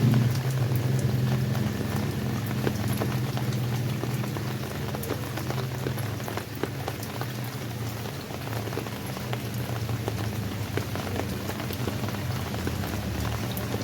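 Rain falling steadily, with many separate drops ticking on a surface over a low, even rumble.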